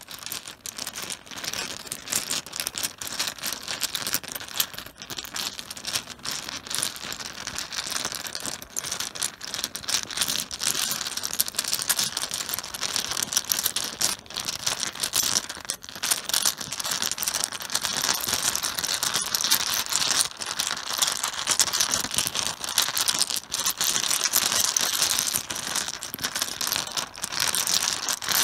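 Mahjong tiles clattering and clicking against each other on a cloth-covered table, a dense, unbroken rattle of small hard knocks that gets a little louder in the second half.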